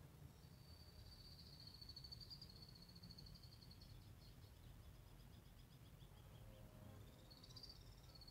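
Faint, high birdsong: a long trill in the first half, then a slower run of notes falling in pitch, and a short burst near the end, over a low steady rumble.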